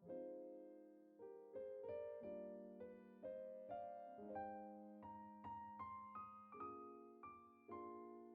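Soft background piano music: single notes struck one after another and left to fade, the melody climbing higher through the middle of the passage.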